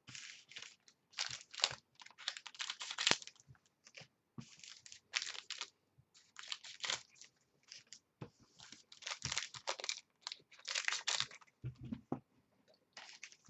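Plastic and foil wrapping being torn open and crinkled by hand as a box of football trading cards is unpacked, in irregular crackling bursts.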